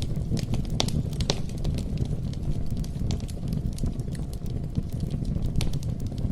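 Campfire burning, with irregular sharp crackles and pops of burning wood over a low steady rumble of the flames.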